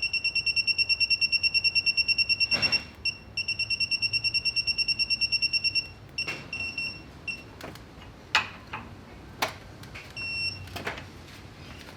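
Rapid high electronic beeping, about ten beeps a second, from a digital torque tool as a connecting-rod bolt is pulled down toward its stretch limit. The beeping pauses and resumes, then gives way to short runs of beeps and a few sharp metal tool clinks.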